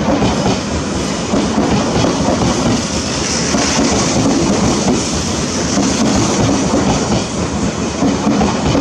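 Odakyu electric commuter train rolling slowly past close by as it pulls into the station, a steady rumble with its wheels clacking over the rail joints.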